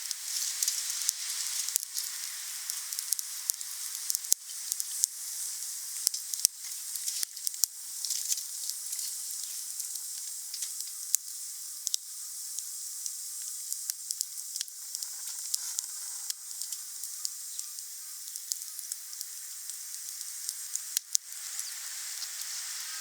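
Wood fire burning, with a steady hiss and frequent sharp crackles and pops from the burning wood.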